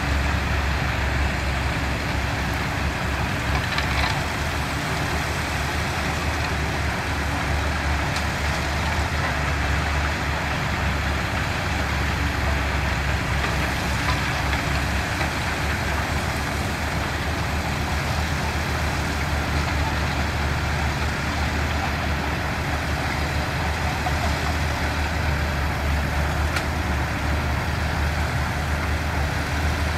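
Diesel engine of heavy construction machinery running steadily, with a strong low hum and no changes in level.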